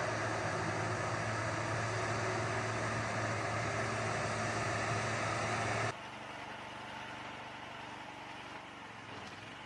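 An engine running steadily at an even pitch with a strong low hum. About six seconds in it gives way abruptly to a quieter, steady machine noise.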